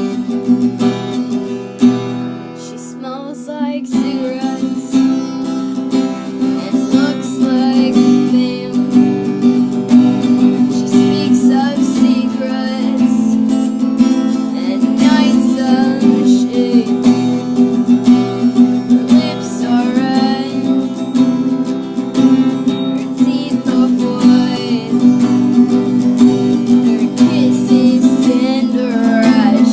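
Acoustic guitar being strummed steadily, dipping softer for a moment about two to four seconds in.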